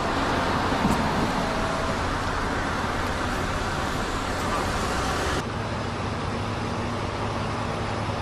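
Steady rushing outdoor background noise with no speech. It drops slightly in level and changes character at an edit about five seconds in.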